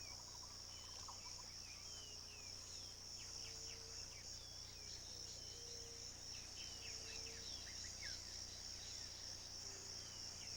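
Faint wetland ambience: a steady high insect drone, with many short bird chirps scattered over it and a few short, low calls repeated every second or two.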